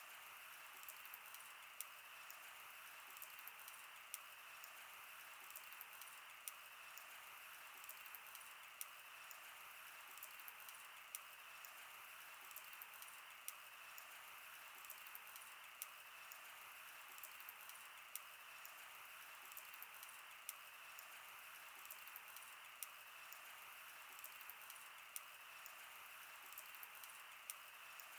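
Wood fire burning: a soft steady hiss with frequent small crackles and pops.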